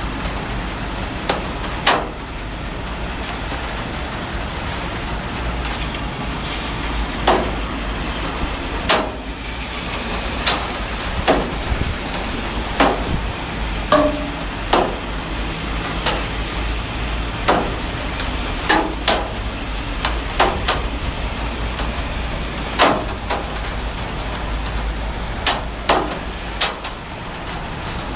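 Heavy rain falling steadily, with a low rumble underneath and irregular loud single drops tapping a hard surface, one or two a second.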